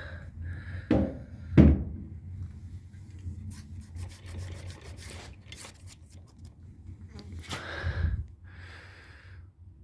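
Rubbing and handling noises with two sharp knocks, about one and one and a half seconds in, over a low steady hum.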